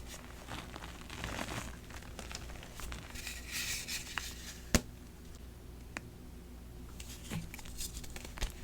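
Dyed BSN gym chalk blocks being crushed, crumbling and crackling in scattered crunches, with one sharp snap a little past the middle and a quieter stretch after it.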